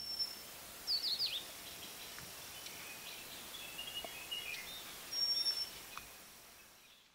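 Birds chirping over a steady outdoor hiss: a quick run of four falling whistles about a second in, then scattered short chirps, fading out near the end.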